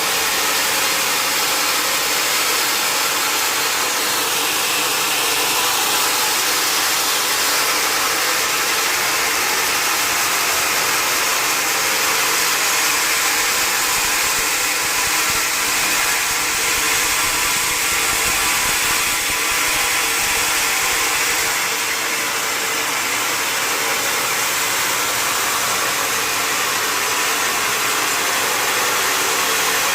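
Sawmill machinery running steadily with a constant whirring mechanical noise.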